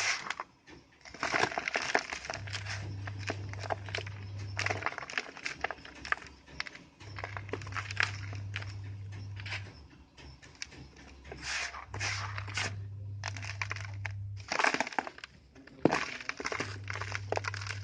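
Dry sand-cement shapes being crushed and crumbled, a dense run of crunches and crackles in bursts with short pauses between them.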